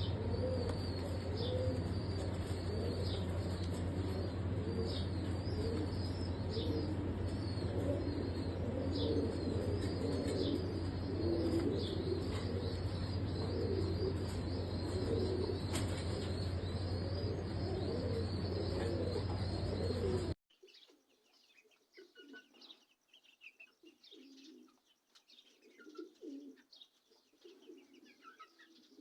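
Fancy pigeons cooing, with small birds chirping high and a steady low hum underneath. About two-thirds of the way through the sound cuts abruptly to a much quieter recording of pigeons cooing.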